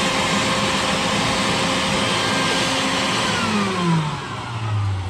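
Vacuum cleaner running with a steady whine, then switched off about three seconds in, its motor winding down with a falling pitch.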